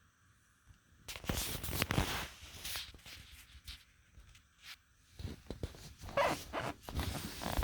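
Rustling and scraping with many small clicks, in two spells: one starting about a second in, another starting about five seconds in.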